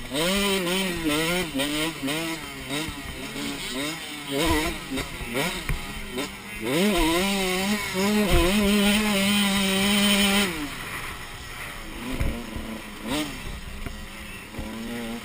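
Motocross dirt bike engine revving up and down as it is ridden, the pitch rising and dropping repeatedly, with one long steady pull at high revs about eight to ten seconds in.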